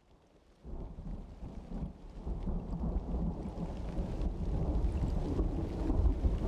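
Summer thunderstorm: a low rolling rumble of thunder over steady rain. It comes in suddenly about half a second in and slowly builds.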